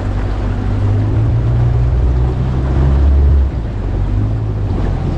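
Motorboat engine running at low speed with a steady low hum; it eases down about three and a half seconds in.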